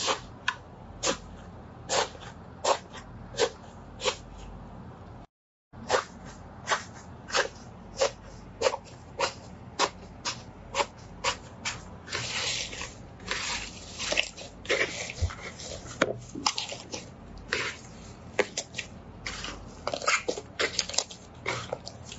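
Slime being pressed and squeezed by hand, giving a series of sharp wet pops and clicks. They come one or two a second at first, break off in a brief gap about five seconds in, then come faster and more irregularly.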